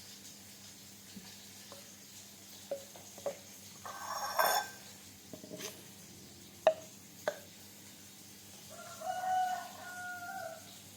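A rooster crowing once, a long held call near the end, over scattered sharp kitchen knocks and a louder noisy burst about four seconds in.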